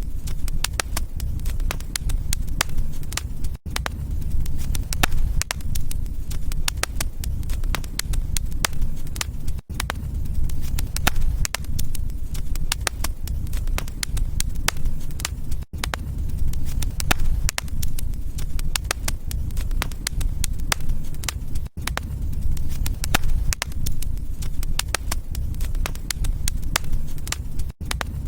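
Wood fire crackling: many small sharp pops and snaps over a low rumble of burning. The sound drops out very briefly about every six seconds.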